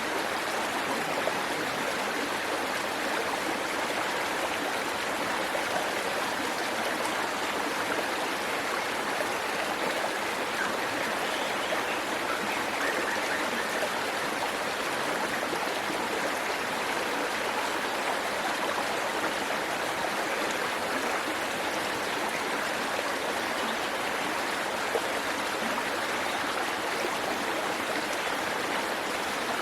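Waterfall and stream water pouring and rushing steadily, an even, unbroken splashing.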